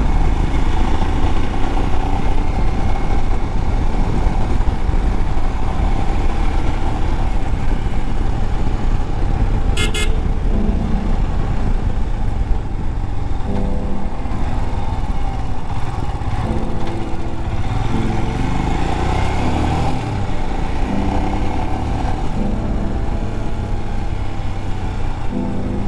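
Motorcycle riding along with its engine running steadily and heavy wind noise on the microphone. A short horn beep sounds about ten seconds in.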